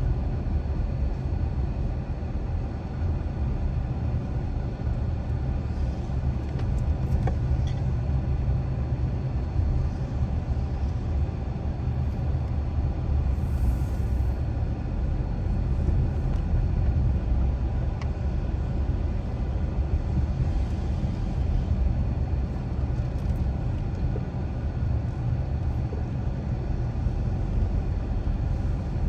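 Car driving at steady speed: a continuous low rumble of road and engine noise with no changes, a few faint ticks scattered through it.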